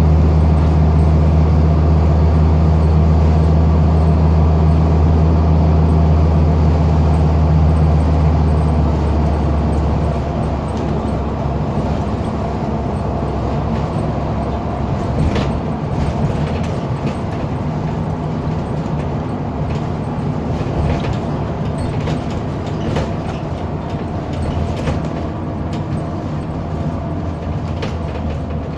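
A Scania N230UD double-decker bus heard from on board. Its engine holds a high, steady drone for about nine seconds, then eases off, leaving a rougher running sound with road noise and a few rattles. The high revs are the sign of its slipping ZF automatic gearbox.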